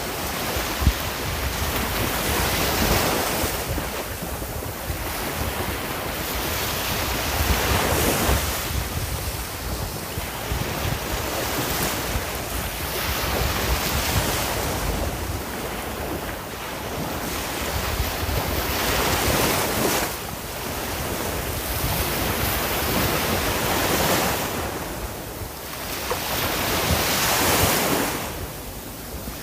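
Sea waves breaking and washing up the shore, the surf swelling and fading in repeated surges every three to four seconds.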